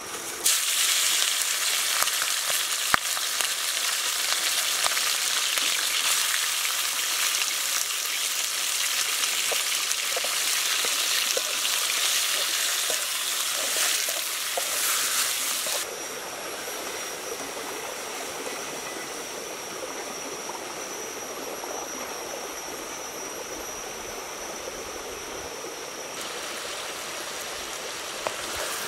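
Chicken pieces frying in hot oil in a wok: a loud sizzle starts abruptly about half a second in, with a few scrapes and knocks from the stirring spatula. About halfway through it drops to a softer, steady sizzle as the chicken cooks in its juices.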